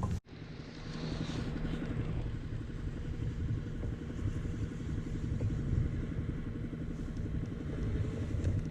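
Fishing reel being cranked steadily, a fast, even whirring of its gears.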